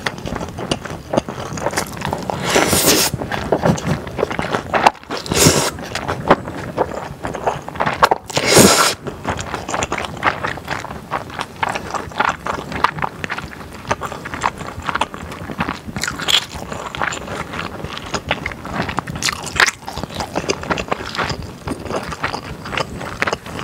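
Close-miked eating sounds of stir-fried thick glass noodles and fatty beef brisket: wet chewing full of small smacks and clicks, with a few louder, longer slurps at about three, five and nine seconds in.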